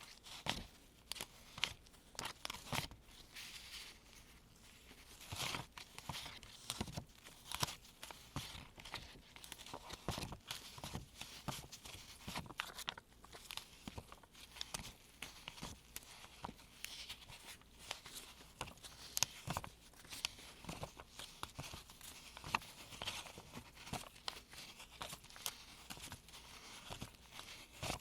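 US one-dollar paper bills handled by gloved hands while being sorted: irregular rustling, crinkling and crisp snaps as notes are picked up, flicked and laid down one after another.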